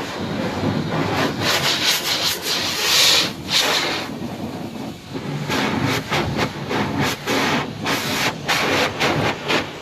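Automatic car wash at work: water spray and scrubbing brushes swishing irregularly over the car's body, loudest about three seconds in.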